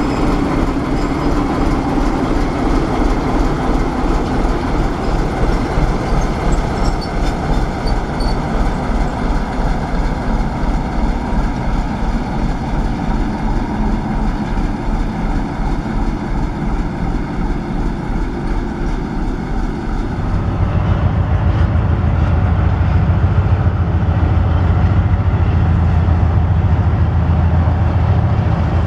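Diesel locomotive with a train running along the track, a low engine rumble mixed with the sound of wheels on the rails. About twenty seconds in, a deep engine drone becomes louder.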